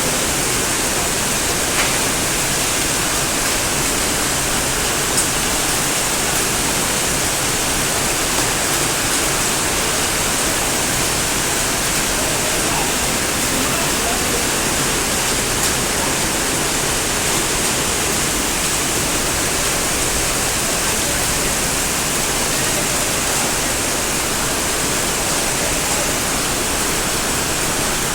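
Floodwater rushing steadily, an even wash of water noise with no pauses.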